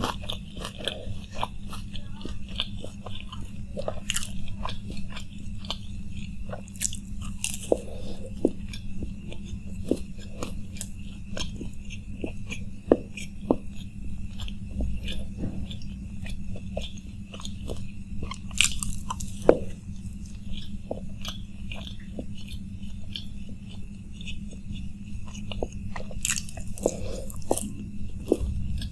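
Close-miked biting and chewing of a crisp fried samosa, with many short sharp crunches scattered throughout, over a steady low hum.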